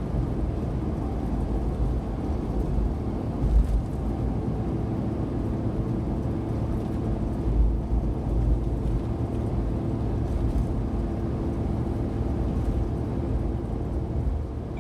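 Suzuki Every DA17V kei van's small three-cylinder engine and road noise heard from inside the cabin while cruising on an expressway, a steady low rumble with a faint engine hum.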